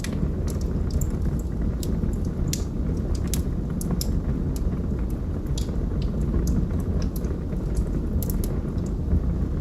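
Log fire crackling: irregular sharp pops and snaps, several a second at times, over a steady low rumble.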